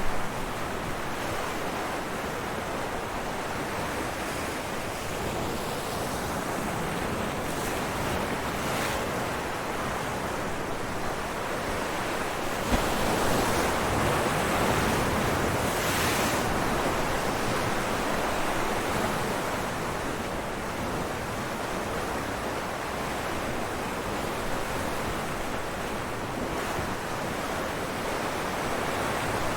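Ocean waves breaking against rocks as a continuous wash of surf, swelling to its loudest about halfway through as a bigger wave breaks, with a brief sharp crack at the start of the swell.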